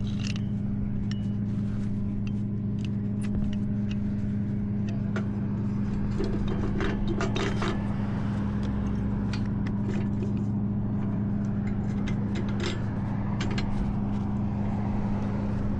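Tow truck engine idling with a steady low hum, while metal gear is handled close by: scattered clanks and knocks, with a burst of clattering and scraping about halfway through.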